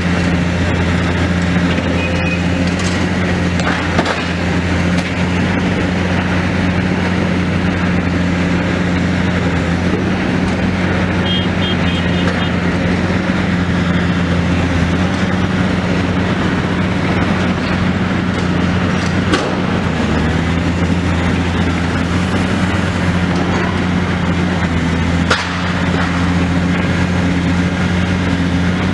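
Demolition excavator's engine running steadily, with a few sharp knocks.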